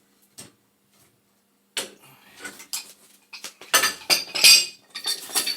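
Steel wrenches clinking and scraping on a half-inch gas pipe fitting as the joint is turned and tightened with two wrenches. A quiet opening second or so, then a run of irregular metal clanks, loudest just past the middle.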